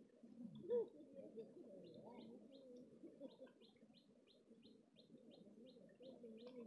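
Faint outdoor ambience: a bird repeats a short high chirp about three times a second, starting about two seconds in. Wavering low calls or distant voices go on underneath.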